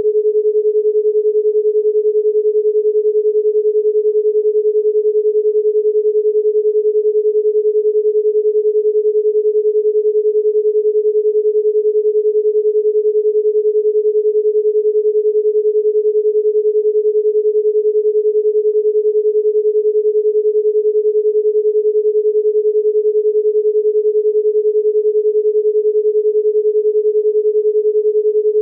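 A single steady pure tone at a low-middle pitch, about 440 Hz, held without any change in pitch or loudness.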